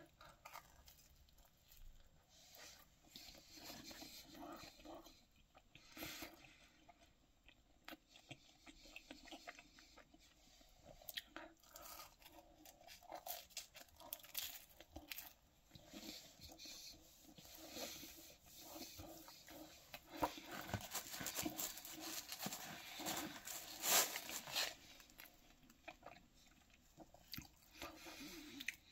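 A person biting into and chewing a slice of BBQ pizza, with irregular crunching and crackling from the crust, loudest a little over twenty seconds in.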